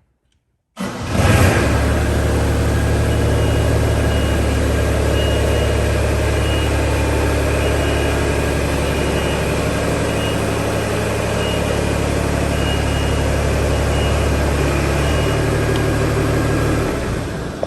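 A motor running steadily with a low, humming drone, starting abruptly about a second in and dying away near the end.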